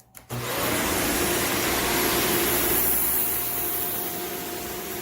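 Shark Vertex AZ2002 upright vacuum switched on about a third of a second in, its motor whine rising as it spins up, then running steadily as it makes a pass over spilled sugar.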